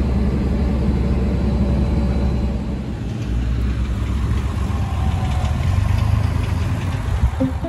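Tractor engine running steadily: a loud, low rumble that stops at the very end.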